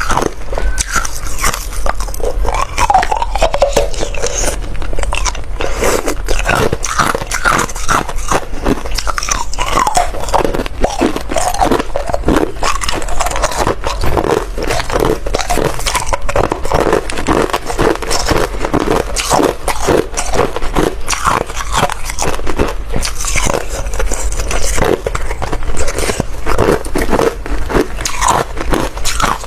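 Close-up crunching and chewing of hard ice: dense, continuous bites and cracking throughout.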